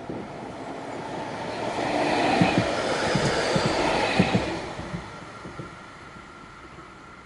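City tram passing by: its rumble swells to a peak over about two seconds, with a series of sharp clacks from its wheels on the rails, then fades away by about six seconds in.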